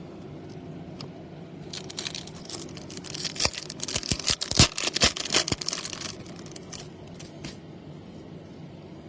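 Foil wrapper of a baseball card pack being torn open and crinkled by hand, a run of crackling with sharp snaps, loudest in the middle, lasting about four seconds.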